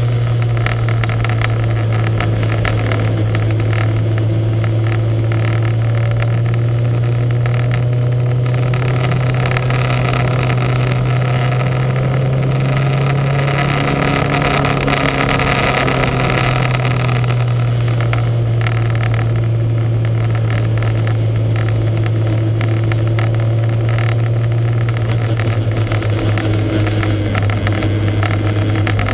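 Lancia Montecarlo's engine running steadily, its note holding at nearly one pitch with only a slight drift up and down.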